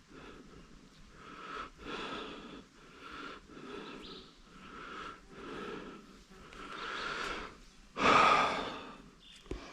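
A runner's heavy breathing from exertion, in a steady rhythm of about one breath a second, with one louder, harsher breath near the end.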